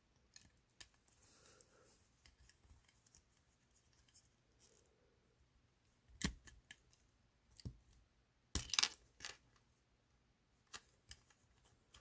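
Scattered clicks and snips of small hand tools working on a diecast toy truck's metal base and axles: a few faint ticks at first, then sharper clicks from about six seconds in, the loudest cluster just before nine seconds.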